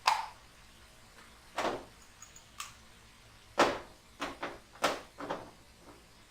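A series of about eight sharp, irregular knocks and clatters from plumbing parts and tools being handled and set down on a work surface.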